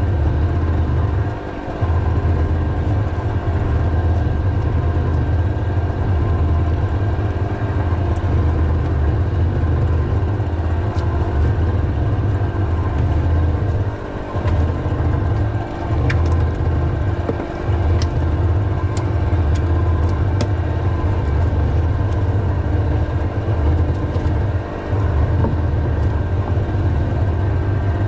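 A small engine running steadily with a deep hum, its level dipping briefly a few times. A few faint sharp ticks come around the middle.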